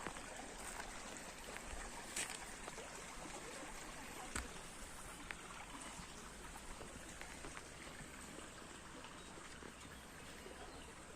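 Faint steady trickle of running water, with a couple of sharp clicks about two and four seconds in.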